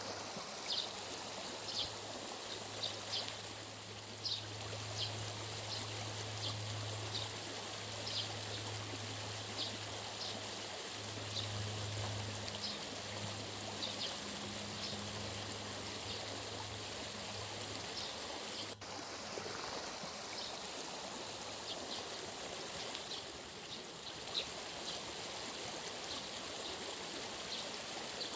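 Steady rushing noise of running water, with short high chirps about once a second. A low steady hum runs underneath and stops about two-thirds of the way through.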